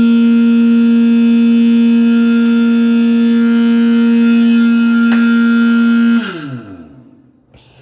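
Pump motor running with a steady high hum, then switched off about six seconds in, its pitch falling as it winds down.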